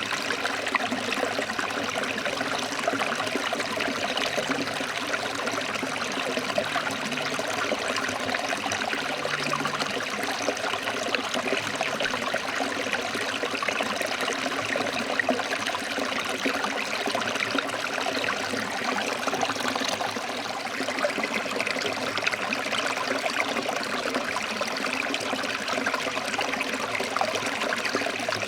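A forest stream flowing over rocks, a steady rush of water.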